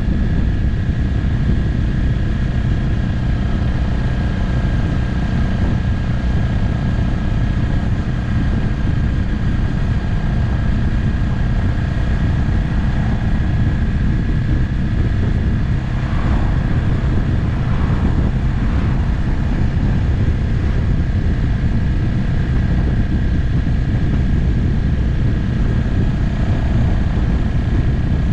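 Motorcycle cruising at a steady speed, its engine running under heavy wind rush on the camera microphone.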